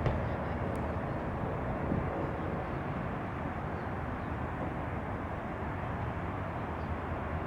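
Boeing 787-8 Dreamliner's jet engines heard as a steady, even noise during its landing.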